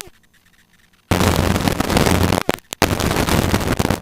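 Helicopter cockpit noise of the rotor and engine, a loud rush with a low hum, passed through the headset intercom. It switches on and off abruptly: quiet for about the first second, loud, a brief dropout about two and a half seconds in, then loud again.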